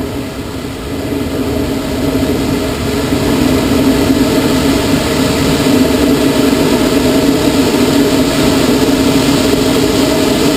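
Air rushing over a glider's canopy and airframe at speed. It grows louder over the first few seconds as the glider picks up speed for the next aerobatic manoeuvre, then holds steady.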